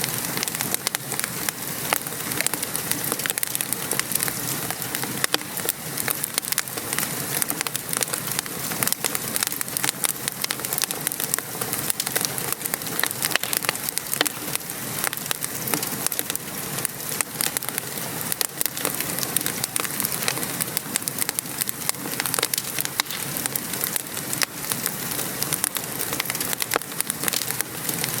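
Wood fire crackling over the steady patter of rain: a constant hiss scattered with many small sharp pops and ticks.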